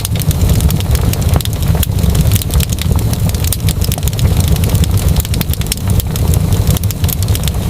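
Fireplace fire crackling, with many quick pops and snaps over a steady low roar.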